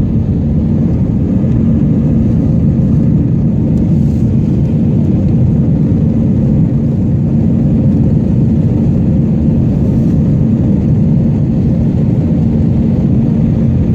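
Airbus A319 jet engines at high power heard from inside the passenger cabin during takeoff: a loud, steady rumble and roar with a low hum.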